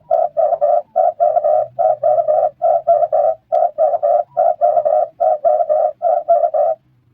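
Red turtle dove calling: a fast run of short cooing notes in pairs and threes, repeated for about seven seconds and stopping near the end.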